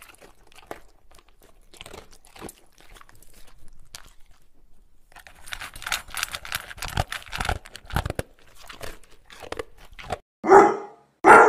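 A pug chewing in the grass: a run of crisp crunching and crackling clicks that thickens in the middle. Near the end a dog barks twice, short and loud.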